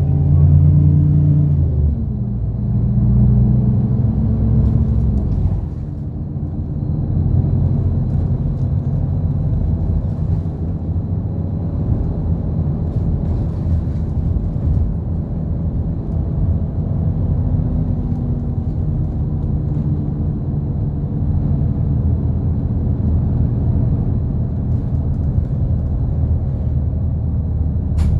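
A route bus's engine and road noise heard from inside the cabin while it is driving. The engine pulls hard for the first five or six seconds, then eases to a steady rumble.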